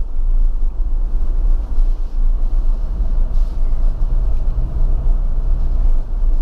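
Car running along a road, heard from inside the cabin as a steady low rumble of engine and tyres.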